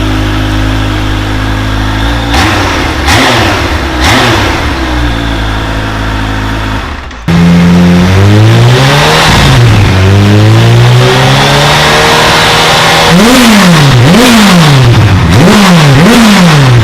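Kawasaki H2 SX SE's supercharged inline-four running through a Brocks aftermarket exhaust on a warm engine. It idles with a few short throttle blips. About seven seconds in it jumps louder and is revved up and held, then blipped four times in quick succession near the end.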